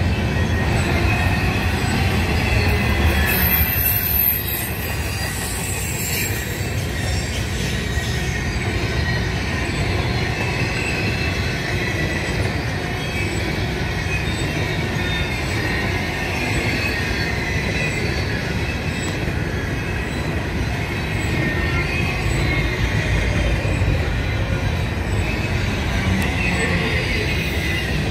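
Double-stack intermodal freight cars rolling past: a steady rumble of steel wheels on rail, with wavering wheel squeal running through it.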